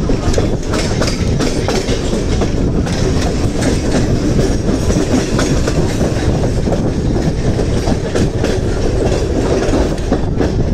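Mumbai suburban electric local train (EMU) running along the line, heard from the coach's open doorway: a steady loud rumble with irregular clicks and clacks of the wheels over rail joints.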